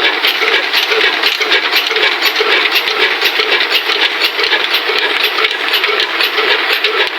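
An engine-driven atta chakki (stone flour mill) running: a steady, dense rattling clatter with a faint high tick repeating about twice a second.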